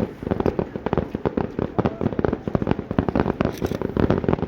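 Fireworks going off in a rapid, unbroken barrage: many sharp bangs and cracks a second, overlapping.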